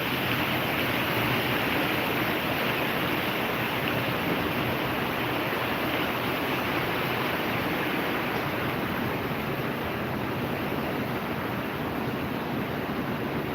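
Heavy thunderstorm rain falling in a steady, even rush.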